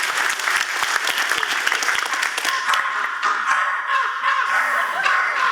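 Audience applauding, with a faint steady pitched tone joining about halfway through.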